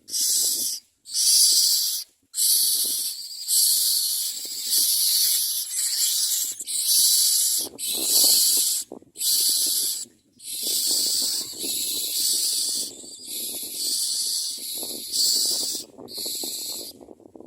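Myna nestlings giving harsh, hissing begging calls, one raspy burst after another with short breaks between them. A lower rustling sound runs under the calls from about eight seconds in.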